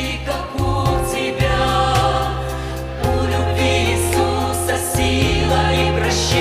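Women's choir singing a slow Christian song, with held notes over an instrumental accompaniment of sustained bass notes.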